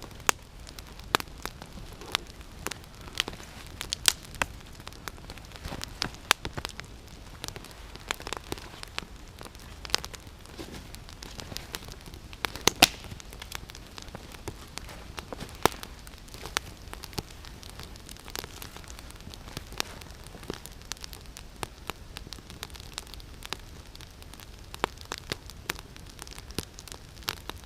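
Campfire of damp deadwood crackling, with irregular sharp pops and snaps over a steady hiss.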